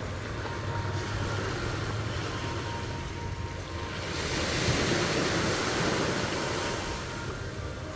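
Sea waves washing onto a beach, one wave swelling louder about four seconds in and then easing off. A low steady hum runs underneath.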